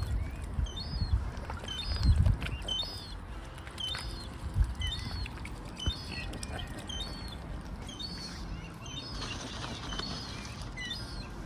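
A gull calling over and over, a short high-pitched call about once a second, with low rumbling bursts underneath.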